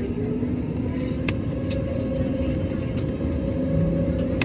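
Airbus A320neo's turbofan engines running during the takeoff run: a steady low rumble with an engine tone that rises slowly in pitch as they spool up. Two brief clicks about one and three seconds in.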